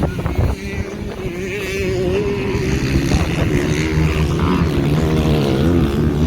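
Several motocross dirt bike engines running on the track, their pitch wavering up and down as the riders work the throttle. The sound grows a little louder after about two seconds.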